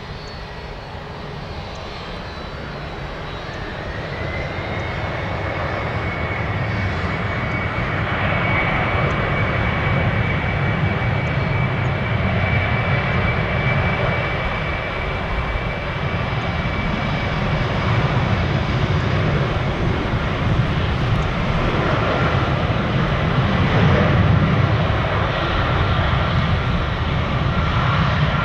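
Jet airliner engines running close by, building in loudness over the first several seconds, with a whine that climbs in pitch and then holds steady over a heavy low rumble. A second, lower whine comes in near the end.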